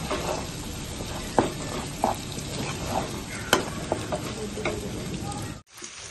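Fish masala frying in oil in a non-stick karahi, sizzling steadily, while a metal spatula stirs it with a few sharp knocks and scrapes against the pan. The sizzling cuts off abruptly near the end.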